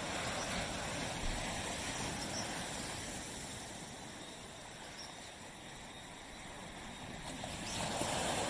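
Waves washing on a beach: the surf dies away through the middle, and the next wave comes in and swells about eight seconds in.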